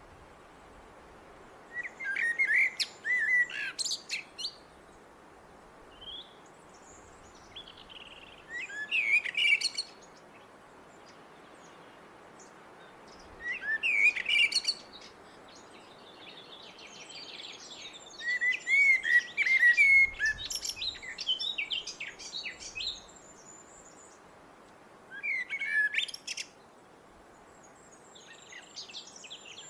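Blackbird singing: about six separate phrases a few seconds apart, each a run of warbled notes ending in higher twittering, the one around the middle longer than the rest.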